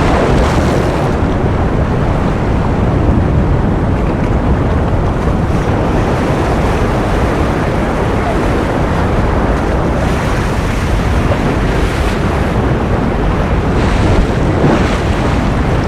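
Ocean surf as a steady, dense rushing noise, heaviest in the low end, with faint swells of hiss about ten and fourteen seconds in.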